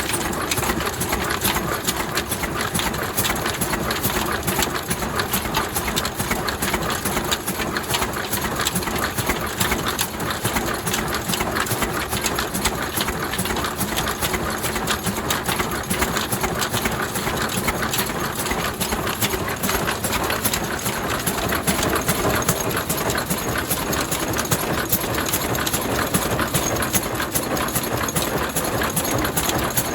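Ruston stationary diesel engine running steadily, with a fast, even mechanical clatter.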